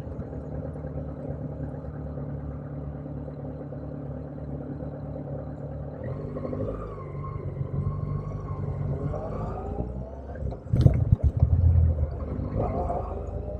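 Motorcycle engine running at a steady low speed, then climbing in pitch as it accelerates from about halfway through, with a sudden loud burst of revs near the end.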